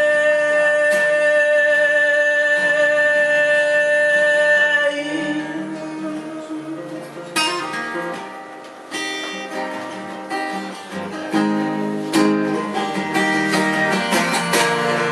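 Live band playing a song's instrumental ending: a note held steady over a chord for about five seconds, then plucked acoustic guitar picking single notes and chords.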